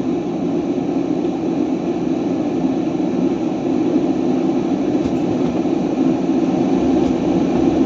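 Semi-truck's diesel engine and road noise heard inside the cab while driving, a steady low rumble that grows a little louder about halfway.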